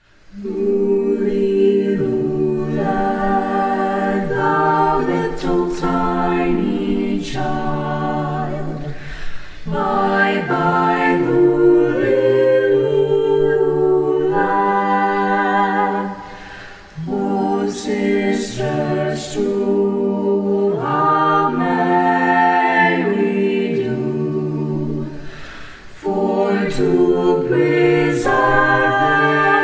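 High school choir singing a cappella in several-part harmony: long held chords in phrases, with brief pauses between them about a third of the way in, about halfway and near the end.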